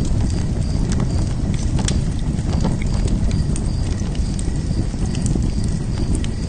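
Wood fire burning in a fire pit: a steady low rumble of flames with irregular sharp crackles and pops from the burning wood.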